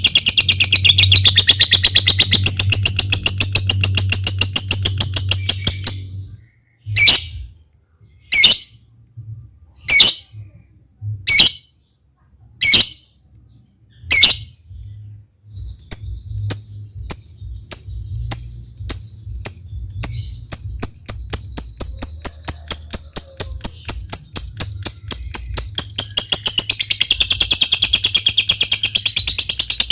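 Lovebird's long rapid chattering trill (ngekek), which breaks off about six seconds in into six loud single sharp calls, each a second or so apart. These are followed by a run of quick ticking notes (ngetik) that speed up and build back into the long trill near the end. A low steady hum runs underneath.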